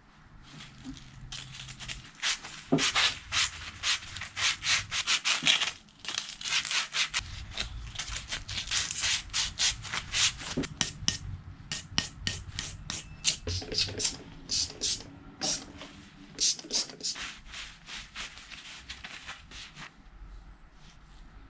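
Rapid back-and-forth hand rubbing with an abrasive on a metal part of a rusty bench grinder being cleaned up, about three strokes a second. It pauses briefly about six seconds in, then carries on more softly.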